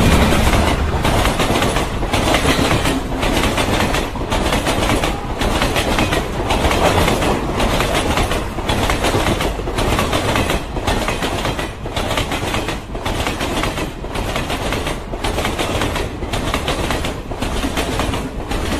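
Train running on rails: a steady rumble of wheels with a rhythmic clickety-clack, dipping briefly about once a second.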